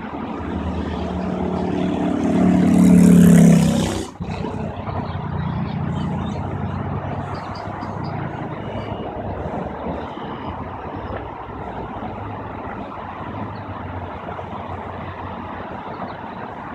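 Steady rumble of motor traffic, with one vehicle passing close, building up and loudest about three seconds in before the sound cuts off abruptly just after four seconds. Faint high chirps follow.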